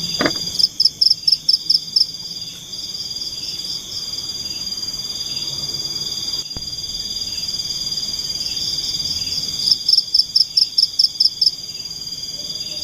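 Forest insects calling: a steady high-pitched trill, joined twice by a louder pulsed chirping call of about five pulses a second lasting a second and a half, once near the start and again about ten seconds in.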